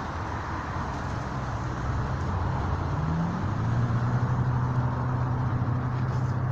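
Motor vehicle engine running, with a steady traffic-like rush; its hum rises in pitch and gets louder about three seconds in.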